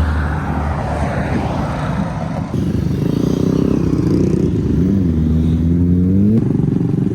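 Small mini-bike engines running. Partway through, one engine revs up, its pitch dipping and then climbing steadily for about a second and a half before cutting off suddenly.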